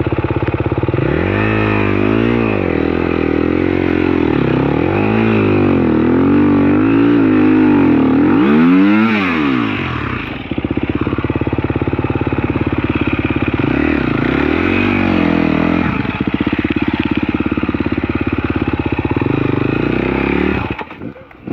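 Dirt bike engine revving in repeated surges, rising and falling about five times, then running more steadily with one more surge, and cutting out near the end. The rider is working the throttle while trying to climb out of a bog where he has said he might be stuck.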